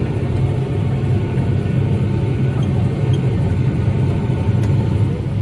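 Tractor engine running steadily under load, heard from inside the cab as a constant low drone while it pulls a fertiliser spreader across the paddock.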